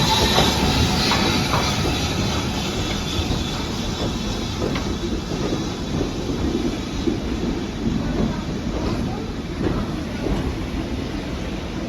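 Train running on the rails, its wheels clattering over the track, with a faint high wheel squeal near the start.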